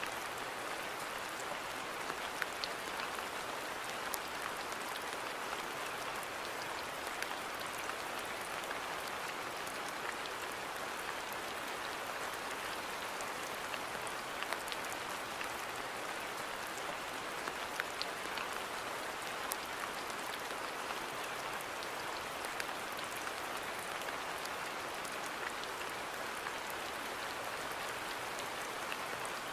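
Steady rain falling on a garden: an even hiss dotted with scattered sharper ticks of single drops.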